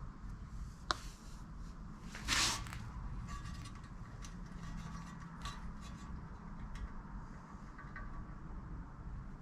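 Small parts being handled during brake pedal reassembly: a sharp click about a second in, a brief scraping rustle a little after two seconds, then scattered light taps and clicks as a rubber grommet is tried for fit.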